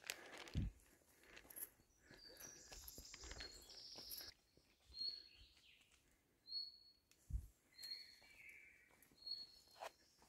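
A bird repeating a short, high chirp about every second and a half, over quiet outdoor background with a few soft thumps and rustles.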